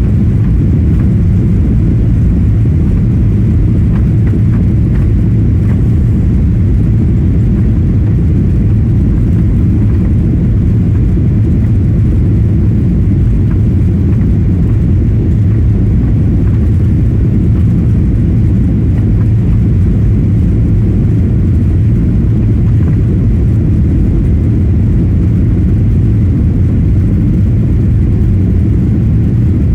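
Jet airliner cabin noise: a loud, steady low rumble of the engines and rushing air as heard from inside the passenger cabin.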